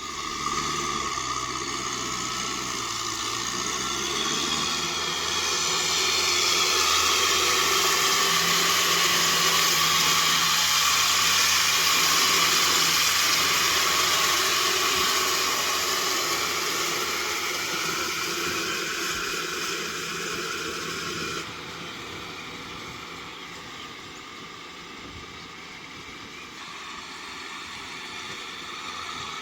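Kubota M6040SU tractor's diesel engine running steadily, with a loud mechanical wash that is typical of the rotavator working. The engine note dips and rises in the first few seconds, and the sound drops suddenly in level about 21 seconds in.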